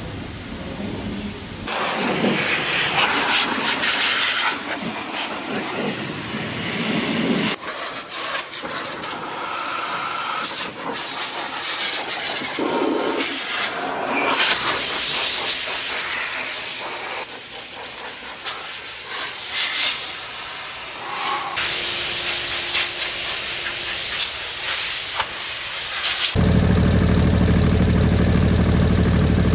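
Water spray hissing in uneven bursts as the car is washed. Near the end it cuts to the Suzuki Alto Works' small turbo three-cylinder engine idling steadily.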